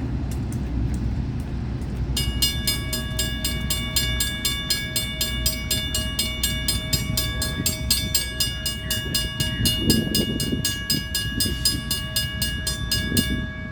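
Railroad grade-crossing bell ringing in fast, even strokes, about five a second. It starts about two seconds in and stops shortly before the end, over the steady low rumble of a passing train.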